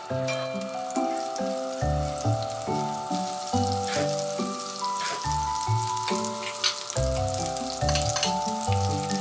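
Background music with a melody and bass notes, over the sizzle and crackle of butter frying in a nonstick pan.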